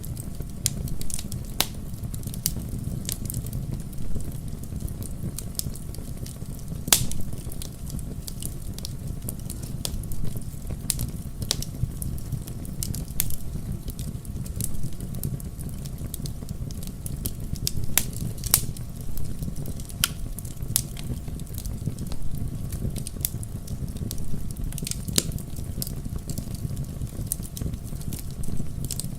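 Wood fire crackling in a fireplace: irregular sharp pops and snaps over a steady low rumble, with a few louder pops about a third and two thirds of the way through.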